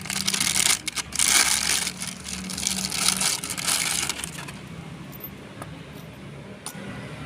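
Harsh, noisy metallic rattling and clattering in uneven bursts for about four seconds, over a steady low hum. The sounds are typical of work on the engine mounts of a light truck.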